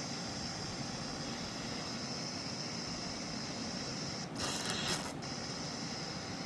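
Steady hiss, with a short two-part mechanical clatter a little past four seconds in that lasts about a second.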